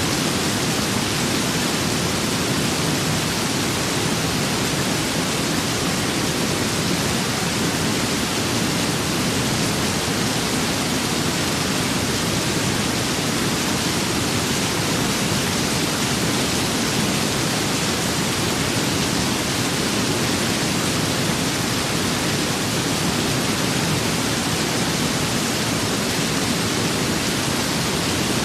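Steady rain and wind ambience: a constant, even hiss with no distinct drops, gusts or thunder.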